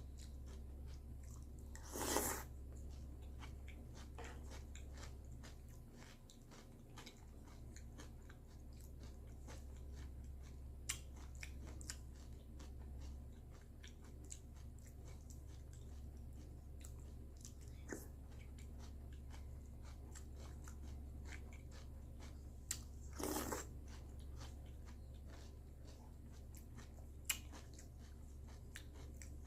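A person eating cereal close to the microphone: soft, scattered chewing and crunching, with two louder crunches a few seconds in and later on, and a few sharp clicks. A steady low hum lies underneath.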